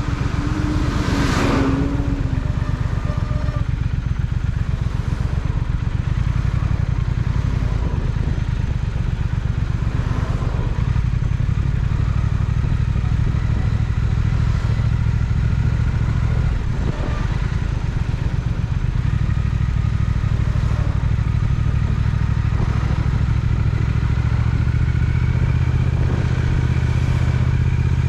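Triumph Speed Twin's parallel-twin engine running under way at a fairly steady speed, its exhaust pulses filling the low end. A brief louder sweep of sound comes about a second in.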